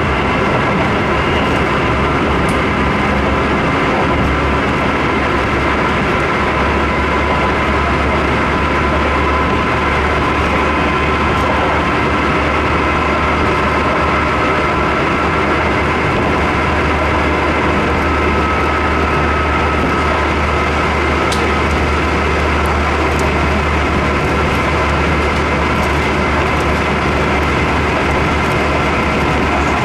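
Interior of a Keisei 3700-series electric train running steadily: continuous rolling noise with a steady whine over it.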